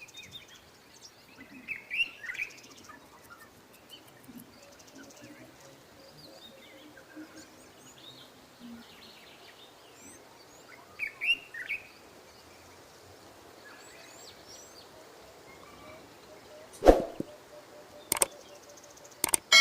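Birds chirping in short calls over a steady low background hiss, with two sharp knocks near the end.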